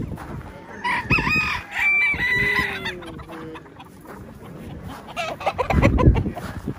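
Gamecock roosters crowing, several calls overlapping at different pitches in the first half. A loud low knocking comes near the end.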